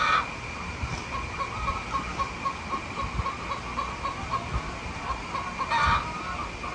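Chickens clucking: a steady run of short, soft clucks at about two to three a second, with louder calls at the start and about six seconds in. A thin steady high tone runs underneath.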